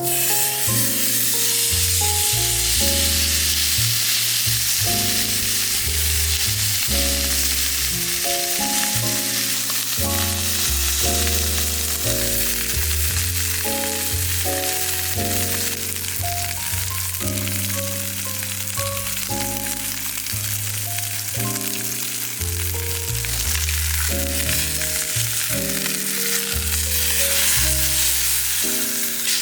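Marbled steak sizzling steadily on an iron griddle, a constant frying hiss, with background music and a bass line playing over it.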